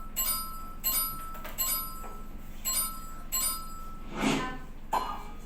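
A run of short, ringing chime tones, about six strikes roughly two-thirds of a second apart, followed by a brief louder sound a little after four seconds in.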